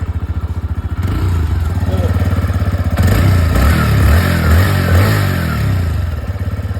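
A warmed-up TVS Raider 125's single-cylinder engine is revved from idle with the throttle. It climbs about a second in, runs higher and louder from about three seconds, then falls back to idle near the end. This is the changed, noisier sound the engine makes once hot, which the owner says is normal and needs no mechanic.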